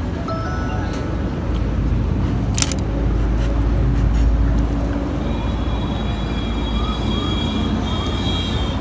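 Road traffic on a highway: a steady rumble of passing vehicles, swelling as a vehicle goes by about two to five seconds in, with a single sharp click near the three-second mark.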